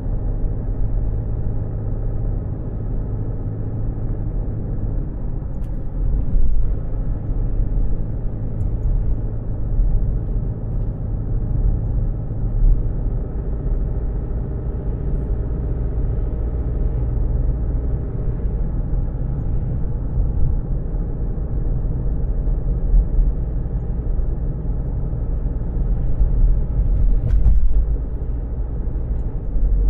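A car's engine running, heard from inside the cabin: a steady low rumble with an even hum.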